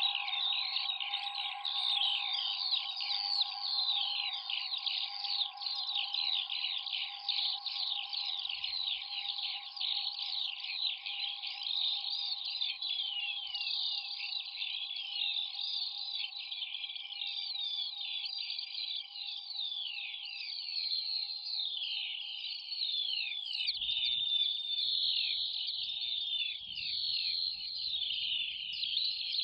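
A dense, unbroken chatter of small songbirds, many quick falling chirps overlapping, laid over a steady electronic drone that grows fainter in the second half.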